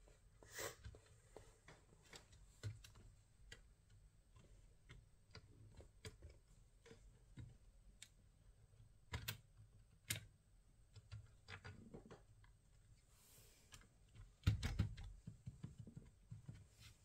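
Faint, irregular small clicks and taps, with a short louder clatter about two-thirds of the way in, like hands handling a laptop and its small parts or typing on its keys.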